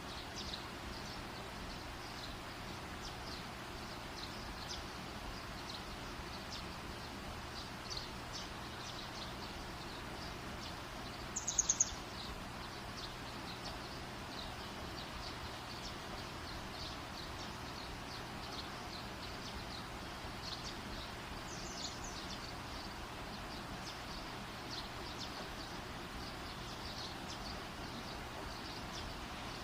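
Campfire burning with a steady hiss and light, scattered crackles. About eleven seconds in, a brief high-pitched chirp stands out as the loudest sound, and a fainter one follows near twenty-one seconds.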